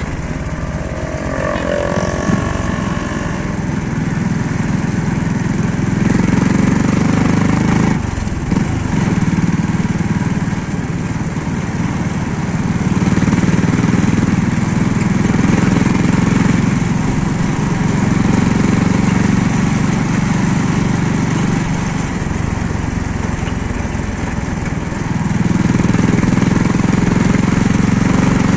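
Small motorcycle-type engine running as the vehicle drives along, with road and wind noise. The engine note swells and eases several times with the throttle.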